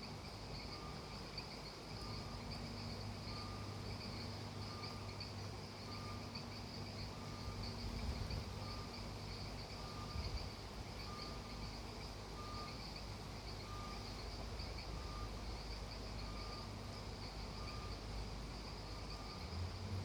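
Night chorus of crickets and other insects: a steady high trill, with a short call repeating evenly about three times every two seconds.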